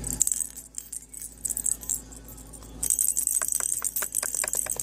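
A pet bird shaking a jingling toy: quick metallic jangles and rattling clicks, one burst at the start and a busier stretch in the last two seconds.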